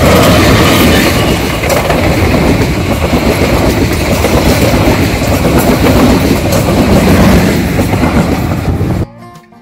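Passenger train passing close by at speed: the diesel locomotive goes by first, then the coaches, with a loud rumble and the rattle of wheels on the rails. The sound cuts off suddenly about nine seconds in.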